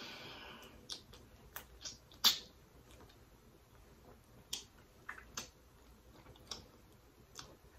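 Close-miked eating sounds: wet mouth clicks and lip smacks while chewing seafood, heard as scattered sharp clicks, one louder snap a little over two seconds in.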